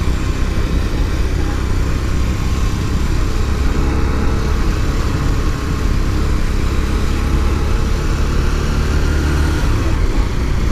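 Motorcycle engine running steadily with a deep, even rumble, as on a ride.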